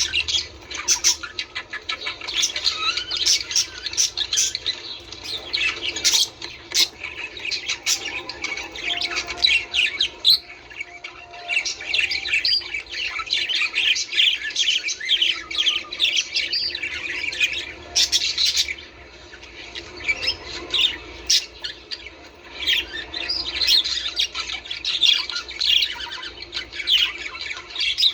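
A flock of budgerigars chattering and squawking, with many rapid, high chirps and warbles overlapping without a break. It is the kind of budgie chatter played to encourage pairs to breed.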